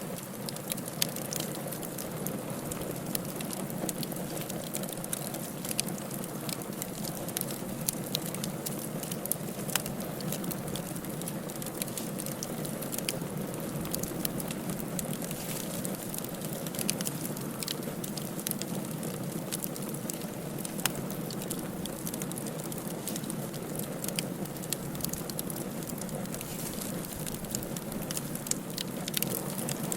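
Firewood burning in a fireplace: a steady low rush of flame with frequent sharp crackles and pops scattered throughout.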